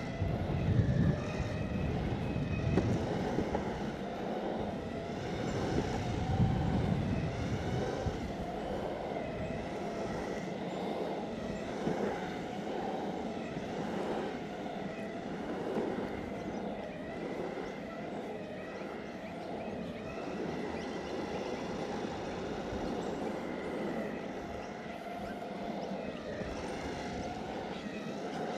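Exway Flex Pro V3 electric skateboard riding: the drive motors whine, their pitch wavering up and down with speed, over the steady rolling noise of the urethane wheels on asphalt. Wind buffets the microphone with low rumbling gusts during the first several seconds.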